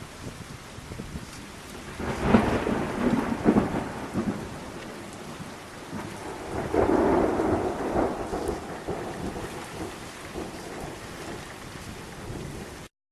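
Thunder rumbling twice over steady rain: a long roll about two seconds in, then a second swell a few seconds later, before the sound cuts off suddenly near the end.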